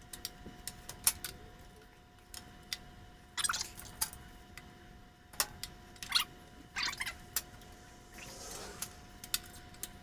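Scattered sharp metallic clicks and clatters of a griddle stand and its parts being handled and adjusted while it is levelled, over a faint steady hum.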